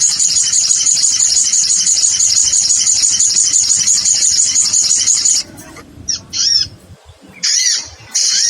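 Recorded calls of sogon, small sunbirds, played as a bird lure: rapid, high-pitched chattering, unbroken for about five seconds, then breaking into two short bursts with gaps between.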